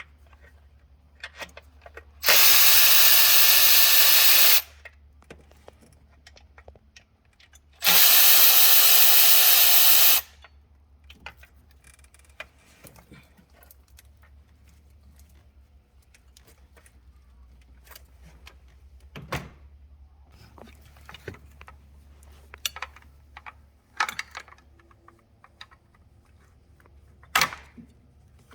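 A handheld power tool, such as a cordless drill or driver, runs twice at steady speed for about two seconds each, about two and eight seconds in. Light clicks and knocks of tools and parts being handled come in between.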